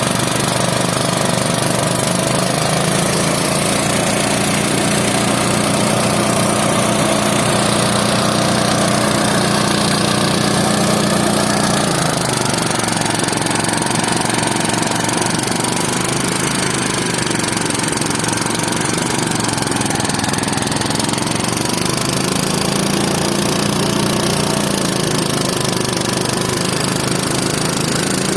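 Engine of farm harvest machinery running steadily. Its note drops about halfway through, picks up again for a few seconds, then settles lower again.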